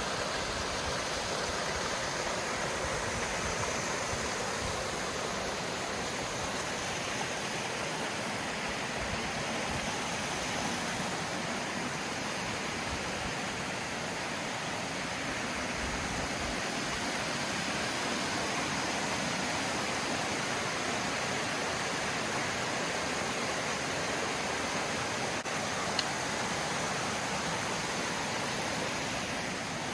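Cascading waterfall: water rushing steadily over rocks.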